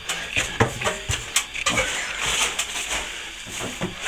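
Plastering hand tools scraping and knocking against setting plaster: a run of short scrapes, taps and clicks.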